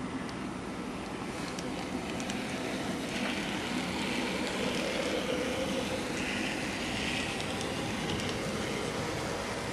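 N-scale model train running on the layout's track: a steady rolling whir with scattered faint clicks of wheels over rail joints, growing a little louder for a few seconds in the middle.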